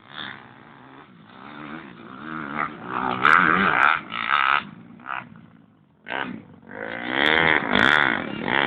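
Dirt bike engine revving, its pitch rising and falling, getting louder through the first half. It drops out briefly about six seconds in, then revs up loudly again.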